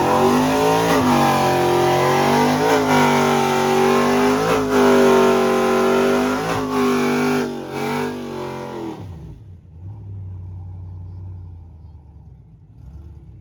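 Truck engine revved hard again and again, each rev held high for about two seconds with brief dips in between, then let down to a low idle about nine seconds in.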